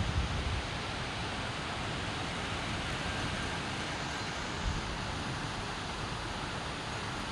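Steady hiss of monsoon rain, with a brief low rumble at the start and a short low thump about four and a half seconds in.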